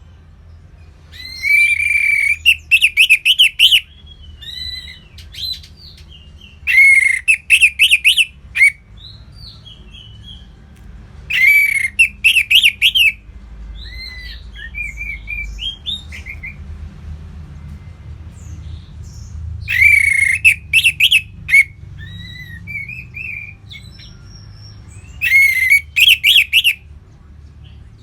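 Orange-headed thrush singing: five loud, rich phrases about every five or six seconds, each a strong opening note followed by rapid ringing notes. Softer varied twitters come between the phrases.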